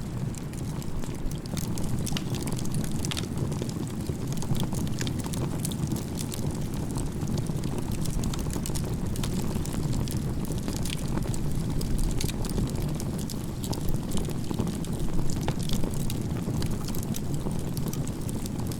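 Firewood burning in a crib-stacked campfire: a steady low rush of flame with frequent sharp crackles and pops.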